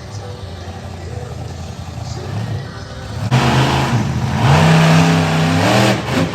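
Monster truck engine running low, then revved hard from about three seconds in, its pitch climbing and holding before dropping off near the end.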